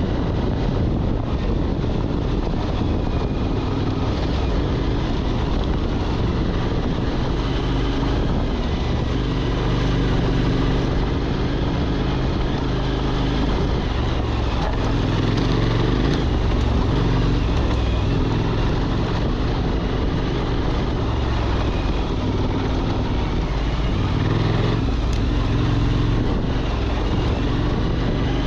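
Motorcycle engine running while riding, its note shifting a little up and down, mixed with steady wind noise.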